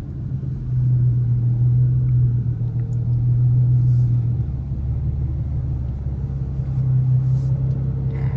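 Infiniti Q50's 3.7-litre V6 with test pipes idling, a steady low rumble heard inside the closed cabin, with faint brief hisses now and then.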